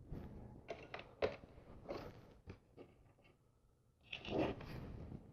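LEGO plastic bricks and plates handled and pressed together: a string of short sharp plastic clicks, the loudest about a second in, then a rustle of pieces being moved about four seconds in.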